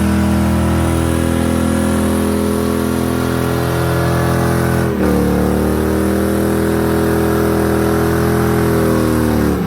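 A car engine held at high, steady revs during a burnout. About halfway it dips for a moment and climbs back to the same pitch, then falls off suddenly right at the end as the throttle is released.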